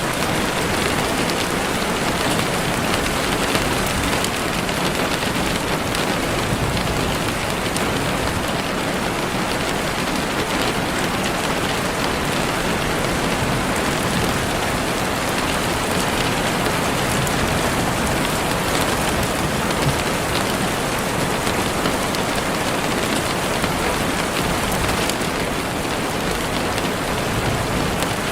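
Heavy rain falling steadily on leaves and the ground: a dense, even hiss with scattered drops ticking through it.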